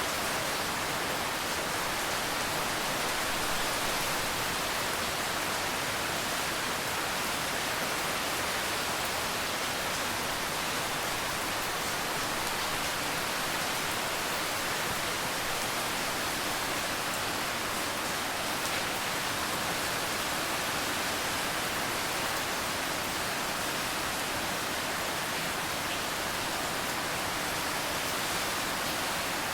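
Steady, dense rainfall: an even hiss of rain with no single drops or thunder standing out.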